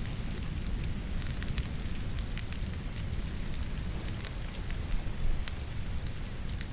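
Logs burning in a fireplace, crackling with frequent sharp pops over a steady low rumble, mixed with the even patter of rain.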